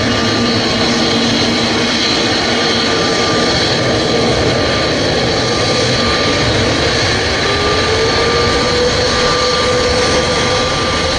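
Jet airliner's engines running loud and steady, a dense rushing noise with whining tones; about two thirds of the way through, one whine rises in pitch.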